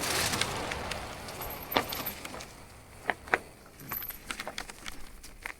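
Marin Alpine Trail 7 mountain bike rolling on a dirt trail: tyre and wind rush that dies away as the bike slows, with a few sharp metallic clicks and rattles from the bike.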